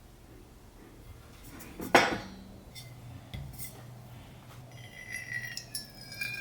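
Household clinks and knocks, with one sharp knock about two seconds in, then a high, slightly falling squeal-like tone from about five seconds in, over a low steady hum.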